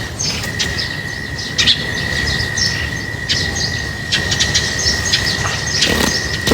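Flock of small birds chirping in quick, overlapping short calls, over a steady high-pitched whine and a low rumble.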